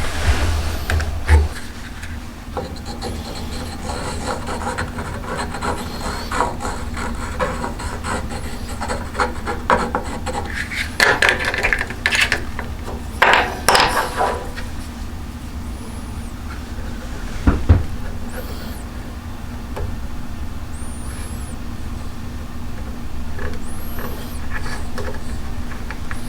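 Hand tool shaping a yew bow stave, a run of uneven scraping strokes on the wood, with a louder cluster of strokes about halfway through.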